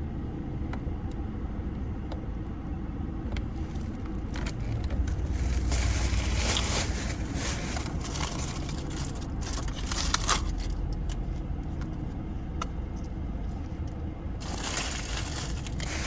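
Car interior noise: a steady low rumble from the moving car, swelling a little about a third of the way in, with scattered light rustles and clicks from inside the cabin.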